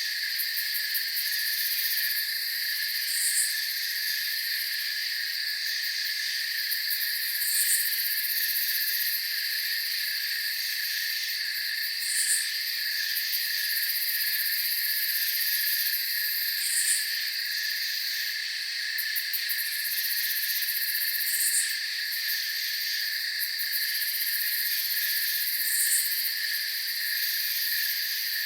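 Night insect chorus: steady, layered high cricket trilling, with a short higher chirp repeating about every four and a half seconds.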